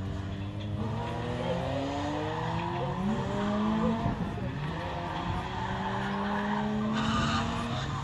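Rally car engine accelerating hard, its pitch climbing, dropping at a gear change about three seconds in, then climbing again. A short burst of tyre squeal comes near the end.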